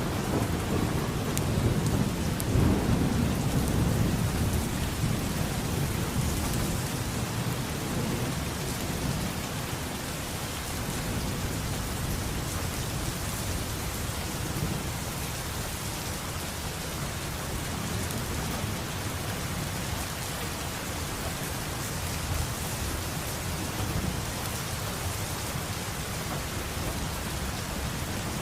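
Steady heavy rain hissing throughout, with a long roll of thunder that is loudest in the first few seconds and fades away.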